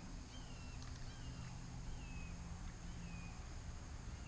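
A bird repeating a short whistled note that rises and then slurs downward, about once every second, over a steady high thin whine.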